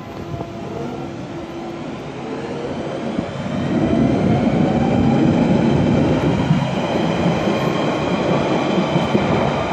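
London Underground Central line train (1992 stock) pulling out of the station. Its motors whine and rise slowly in pitch as it gathers speed, and the running noise of the train grows louder about three seconds in.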